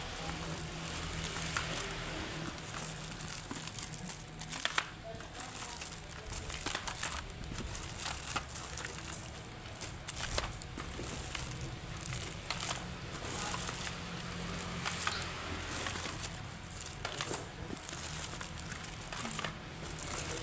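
Packaging crinkling and rustling as it is handled and opened, with scattered irregular clicks and knocks, over a steady low hum.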